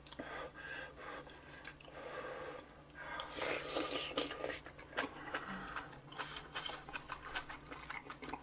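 A person eating close to the microphone: irregular chewing sounds, a little louder for a stretch in the middle, with a few light clicks.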